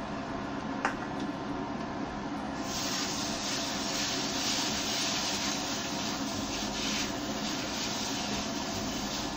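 Spice paste and tomato purée sizzling in a hot wok while being stirred, the sizzle growing louder about two and a half seconds in, over a steady low hum. A single light click about a second in.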